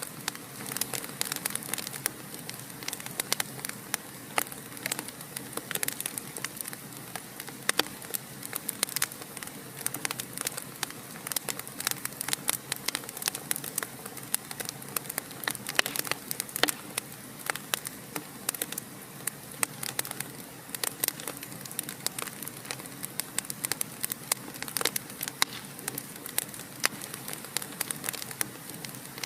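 Wood fire burning in a fireplace, crackling with frequent, irregular pops and snaps over a steady hiss.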